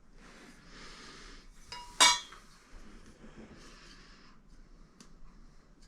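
A single sharp metallic clink with a brief ringing tone about two seconds in, amid faint scraping and rustling of handling tools and parts, with a small click near the end.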